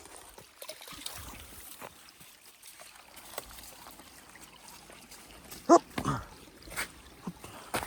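A dog gives a short, high yelp about two-thirds of the way through, followed right after by a lower, falling whine. Scattered light knocks and rustles are heard around it.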